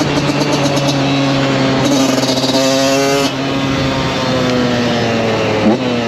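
KTM 125 SX single-cylinder two-stroke engine running, its revs slowly drifting, with a harder, louder pull from about two to three seconds in and a quick blip near the end.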